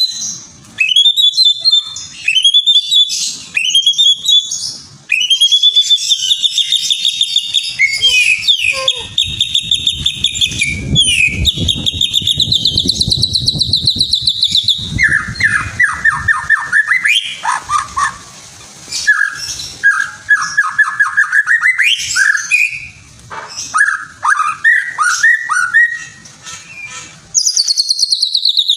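Songbird song played as a bird-keepers' lure recording: long, fast trills of rapidly repeated notes, high-pitched in the first half, then lower, chattering trills in the second half.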